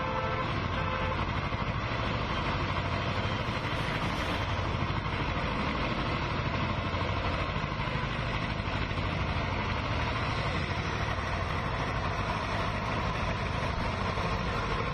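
Steady street-traffic noise with vehicle engines running, with no break or sudden event.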